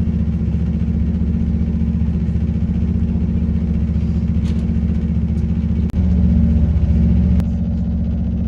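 Diesel engine drone of a CrossCountry Voyager train under way, heard inside the carriage as a steady low hum. About six seconds in there is a sharp click, after which the drone runs louder for about a second and a half before dropping back.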